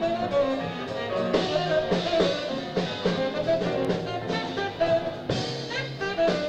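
Live jazz quartet playing (tenor saxophone, piano, double bass and drum kit): a quick melodic line moving over walking bass notes and busy drumming.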